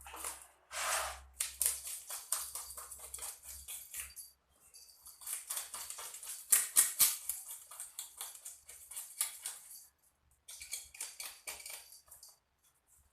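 Biawan fish being cleaned by hand: a quick, irregular run of short scraping and cutting strokes, with a short pause just before the end and a few more strokes after it.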